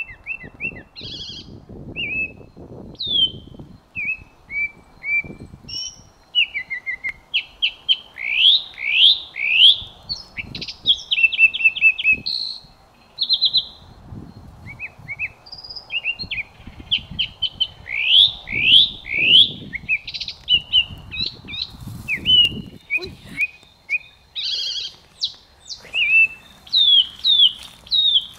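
Songbirds chirping and singing: a busy, varied run of short whistled notes and quick sweeping phrases, some in fast runs of three or four. Soft rustling and scuffing run underneath.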